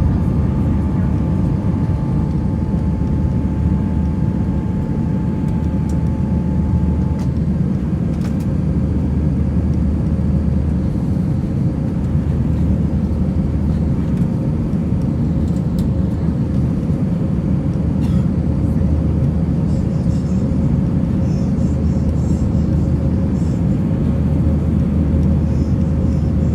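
Airbus A319 airliner cabin noise: the engines and airflow make a loud, steady drone with a low hum and a thin steady tone above it. A fainter higher whine fades out in the first few seconds.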